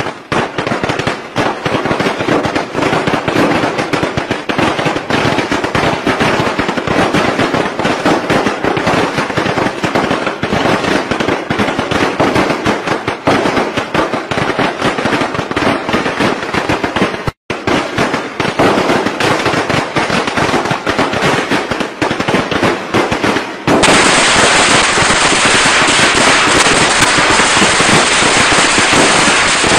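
Strings of traditional Vietnamese Tết firecrackers going off in a dense, rapid, continuous run of bangs. The sound breaks off for an instant about two-thirds of the way through, and near the end it switches abruptly to a louder, denser crackle.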